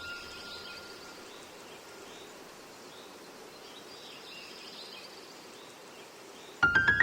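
Faint steady background noise with a few faint high chirps, as the last note of a chime rings out over the first second or so. Piano music starts near the end.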